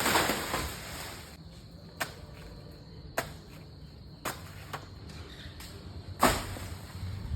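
A series of sharp knocks at uneven intervals over a low steady hum. The loudest knock comes at the very start and another strong one about six seconds in.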